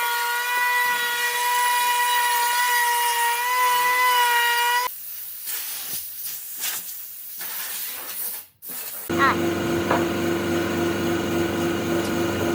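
A woodworking power tool running with a steady high whine, which stops about five seconds in, followed by scattered knocks and scraping. About nine seconds in, a machine starts running with a lower steady hum.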